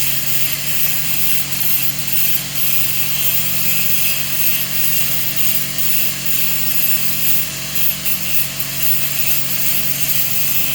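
Rock saw with a new blade running and cutting through a chalcedony agate nodule: a loud, steady grinding whir with a constant hum under it.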